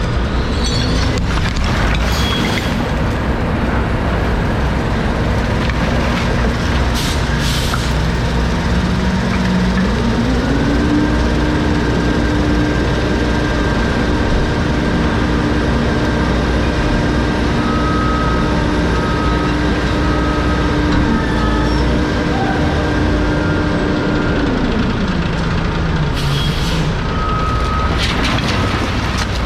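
Garbage truck engine running with a steady heavy rumble, revving up about ten seconds in and holding high while the crushing packer works, then dropping back to idle near the end. A few metal clanks and an intermittent high beeping.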